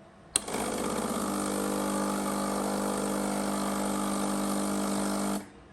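Breville BES990 espresso machine's water pump switching on with a click and running with a steady hum for about five seconds during its descale cycle, pushing descaling solution through the opened valve, then cutting off suddenly.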